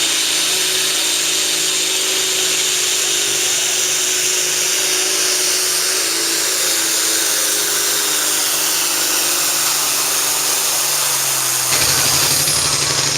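Super stock pulling tractor engine running hard at high revs, its pitch sinking slowly as it loads down. Near the end it cuts back suddenly to a rough, rapid pulsing beat as the throttle comes off.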